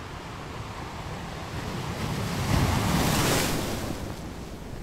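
Sea waves crashing on a rocky beach: a steady wash of surf with one wave building and breaking loudest about two and a half to three and a half seconds in, then falling away.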